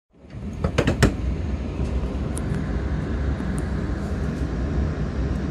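Tokaido Shinkansen train pulling out of a station, heard from inside the car: a steady low rumble of running noise, with a few sharp clicks about a second in.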